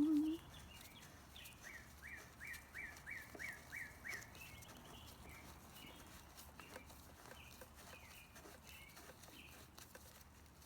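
A small bird chirping in the background, with a quick run of about six rising chirps a few seconds in and scattered single chirps after. Faint light clicks from handwork sound underneath.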